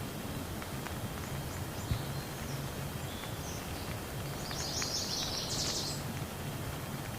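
Steady rain falling, with scattered individual drops tapping close by. A bird chirps a few short, high calls in the background, loudest a little past the middle.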